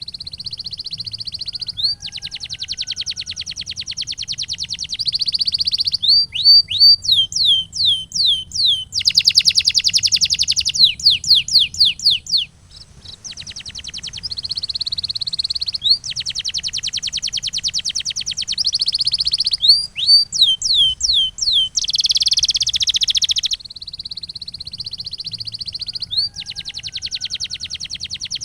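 Male domestic canary singing a long song: fast rolling trills held for a second or two, alternating with series of sharp, falling whistled notes, with a brief pause about halfway through. A faint low hum sits underneath.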